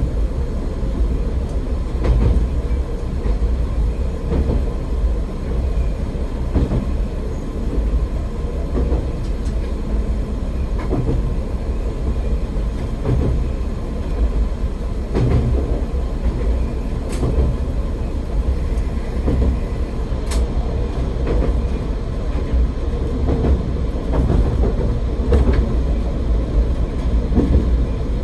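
AN-8800 diesel railcar running along the line, heard from inside: a steady low rumble of engine and wheels on the rails, with a few separate sharp clicks scattered through it.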